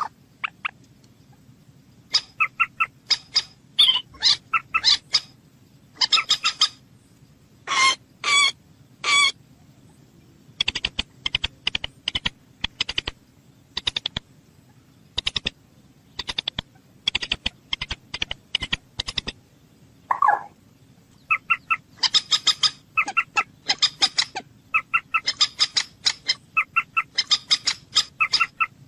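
A bird calling in rapid series of short, sharp notes, grouped in bursts with brief pauses, with a few longer notes about eight seconds in.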